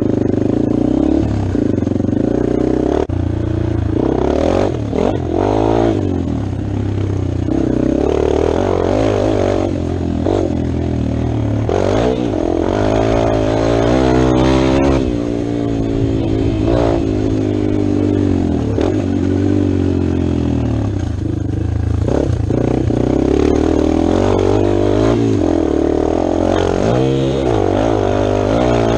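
Dirt bike engine under riding, revving up and dropping back again and again as the bike accelerates, shifts and eases off over jumps and whoops.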